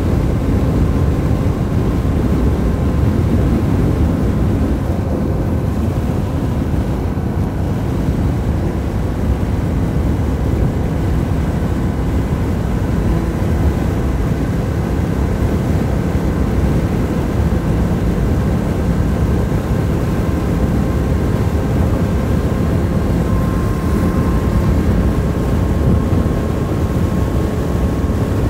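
Motorcycle engine running at a steady cruise, with wind rush over the microphone; the engine note holds nearly even throughout.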